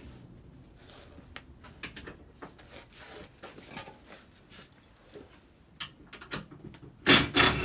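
Hand tools clinking on the classic Mini's rear subframe bolts as they are undone: scattered light metallic clicks and knocks, then a loud harsh rattling clatter about seven seconds in.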